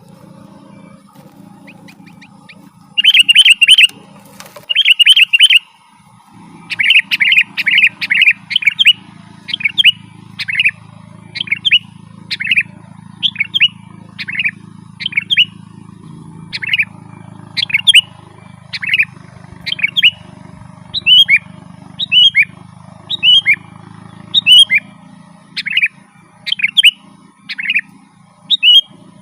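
Sooty-headed bulbul (kutilang) singing. It opens with bursts of fast chattering notes, then gives short clear calls about once a second, each a quick falling note. A steady low hum runs underneath.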